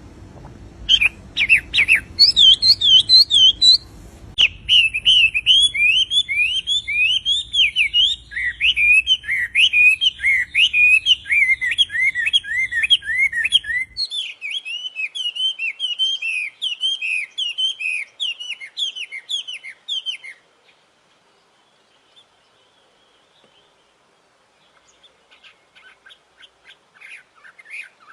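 A caged songbird known in Indonesia as the wambi singing a long, continuous run of quick swooping whistled notes. The song stops about twenty seconds in, then starts again faintly near the end.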